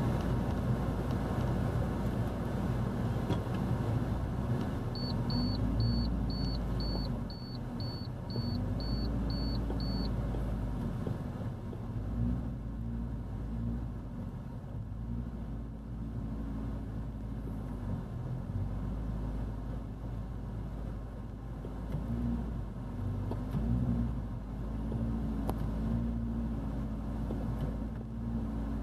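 Alfa Romeo 147's engine running, a low rumble whose pitch rises and falls as the revs change. About five seconds in, a short high beep repeats roughly twice a second for about five seconds.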